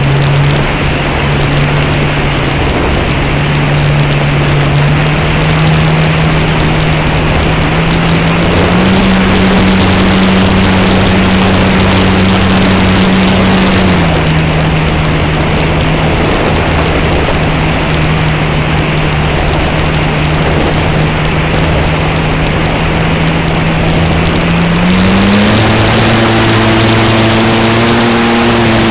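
Onboard sound of an E-flite Cherokee 1.3m RC model plane in flight: the electric motor and propeller give a steady whine under loud wind rush across the camera. The pitch steps up with throttle about a third of the way in, drops back a few seconds later, climbs higher again near the end and falls off right at the close.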